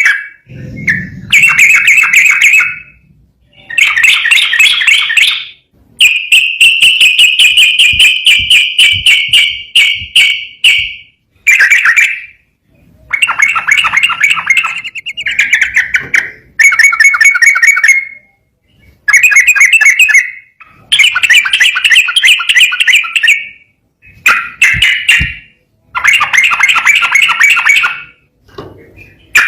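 Sooty-headed bulbul (trucukan) singing loud, rapid trilled phrases of a second or two each, with short pauses between them. About six seconds in comes one long unbroken trill lasting around five seconds.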